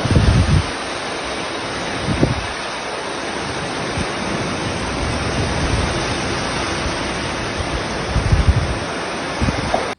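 Heavy storm downpour and squall wind, a loud steady hiss of rain, with wind gusts buffeting the microphone in low rumbling surges at the start, about two seconds in, and twice near the end.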